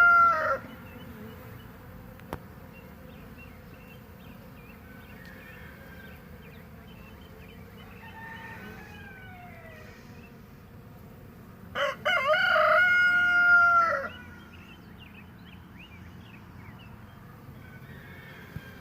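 A rooster crows twice, loudly: one crow tails off in the first half-second, and a second full crow comes about twelve seconds in and lasts about two seconds. Between the crows is the steady hum of honey bees flying around their hive, with a fainter bird call about eight seconds in.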